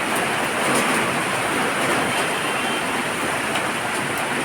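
Heavy rain pouring steadily: a dense, even hiss of rainfall.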